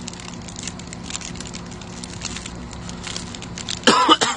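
Small crackles and clicks of someone eating a fried croquette from a paper wrapper, with the crust crunching and the paper rustling, over a steady low hum. Near the end comes a short, loud vocal exclamation that falls in pitch.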